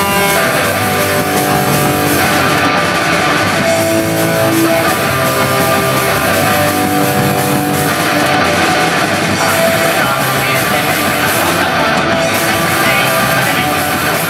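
Rock band playing loudly, with electric guitar to the fore in held chords and notes: a band's sound check.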